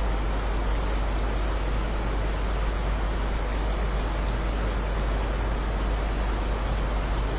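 Steady heavy rain: an even, unbroken hiss with a deep rumble underneath, no single drops or thunder standing out.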